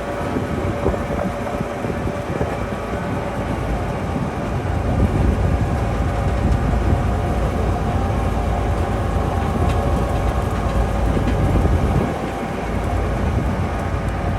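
Tourist train running along the track: a steady rumble of the rail cars, louder from about five seconds in and easing back near the end.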